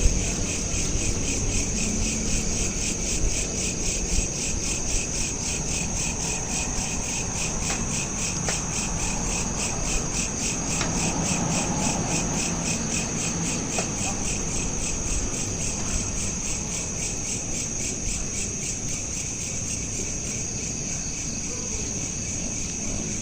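Crickets chirping in a steady chorus, a fast even pulsing trill, with a low background rumble recorded on a smartphone.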